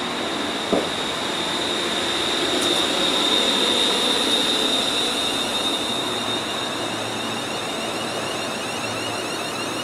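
ScotRail electric multiple unit running slowly through the platform: steady wheel and traction rumble with a high whine that swells in the middle and then eases. A short click comes just under a second in.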